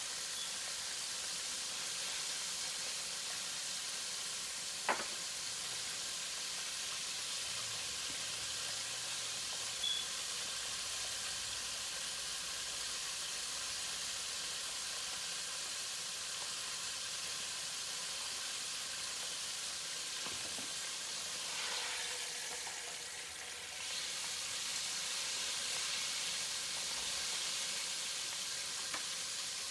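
Chicken wings frying, a steady sizzle, with two brief sharp clicks in the first third and a short lull about three quarters through.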